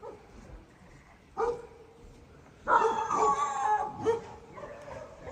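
A dog vocalizing: a short yelp about a second and a half in, then a louder, wavering, drawn-out howl of about a second and a half near the middle.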